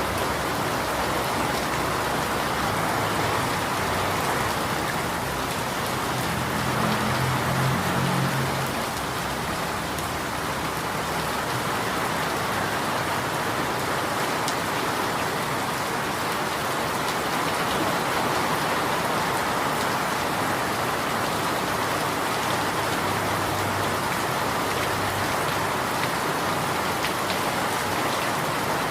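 Steady, dense rainfall, an even hiss of drops. A low rumble swells briefly about six to nine seconds in.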